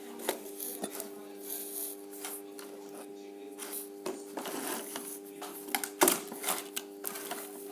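Hand-handling noises: scattered rustles and clicks, with one sharp knock about six seconds in, over a steady hum.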